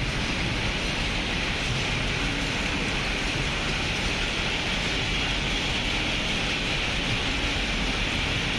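Steady, even rushing noise at a constant level, with no distinct strokes or tones.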